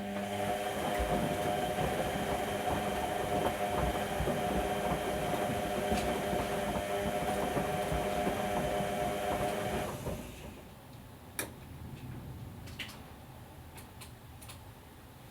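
Whirlpool Indiana 1400 washing machine's motor turning the drum during the wash, with a steady whine for about ten seconds. It then stops, leaving a quieter pause with a few clicks before the next turn.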